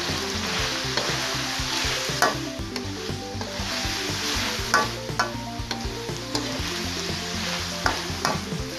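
Pork and taro slices sizzling in a hot pan as a spatula stirs them, with a steady frying hiss. Several sharp clicks sound as the spatula strikes and scrapes the pan.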